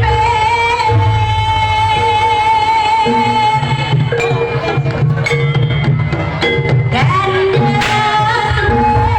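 Javanese jaranan music: drums and gongs keep a repeating beat under a long held melody line that slides between notes.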